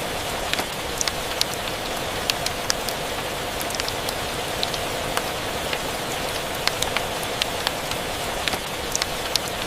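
Rain and fireplace ambience: an even hiss of steady rain with irregular sharp crackles and ticks scattered over it, about one to three a second.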